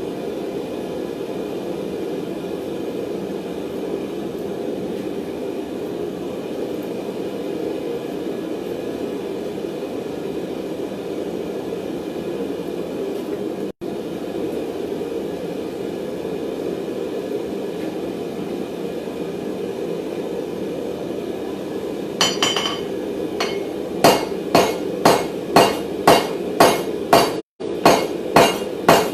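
A forge running with a steady roar. Near the end a clank, then a steady run of hammer blows on an anvil, about three every two seconds, forging hot round mild steel bar.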